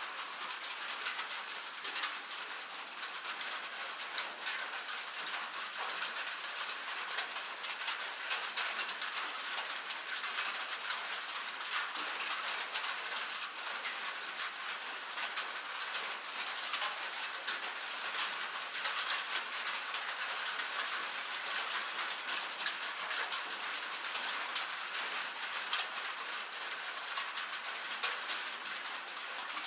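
Steady rain drumming on a metal roof: a dense hiss full of tiny ticks from the drops, at an even level throughout.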